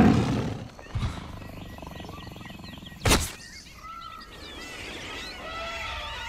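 Bird-like chirps and short whistling glides, with a sudden loud noise at the start and a shorter one about three seconds in.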